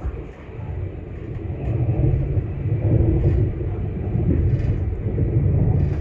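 Low rumble of a train running along the tracks, heard from inside the carriage, growing louder about two seconds in.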